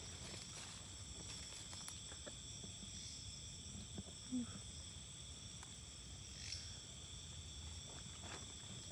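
Night insects chirring in a steady chorus at several high pitches, with faint footstep crunches and a brief low knock about four seconds in.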